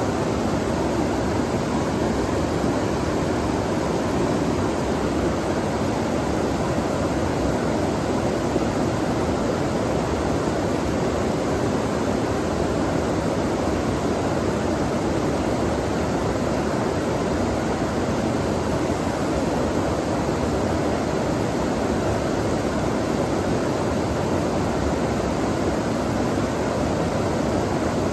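Flowing stream water rushing steadily, one even noise without separate splashes or changes.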